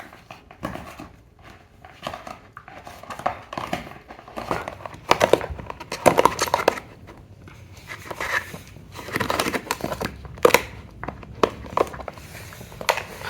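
Irregular crinkling and rustling in quick bursts, busiest about five to seven seconds in and again around ten seconds.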